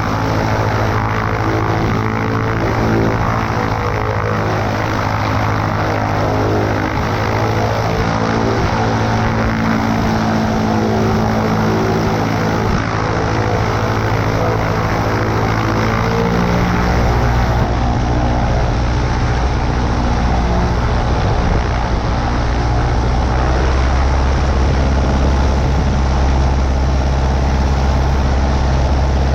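Cessna 140A's piston engine and propeller running steadily. A deeper low drone comes in about halfway through and grows toward the end.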